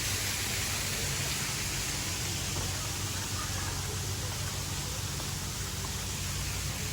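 Small waterfall, water rushing and splashing in a steady, even hiss.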